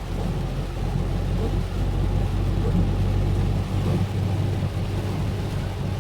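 A road vehicle on the move: a steady low engine drone with road and rain noise over it.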